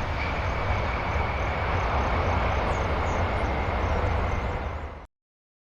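Jet airplane engines running: a steady, heavy rumble with a thin high whine. It cuts off abruptly about five seconds in.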